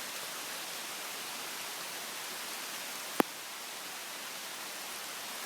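Heavy rain pouring down steadily, a constant hiss, with one sharp click about three seconds in.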